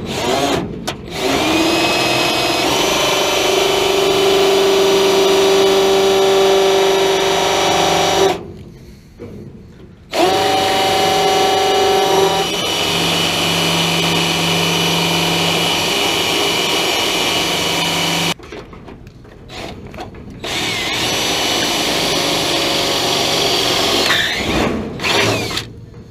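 Power drill running in three long bursts of several seconds each, with short pauses between, its motor pitch stepping up or down partway through each burst.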